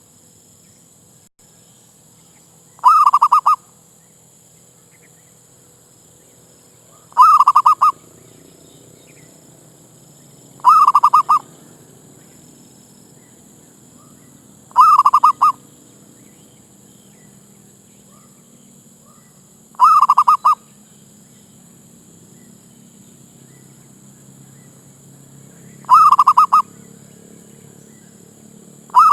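Zebra dove (merbuk) giving its short, rapidly trilled cooing call, loud and repeated six times, one call every four to six seconds.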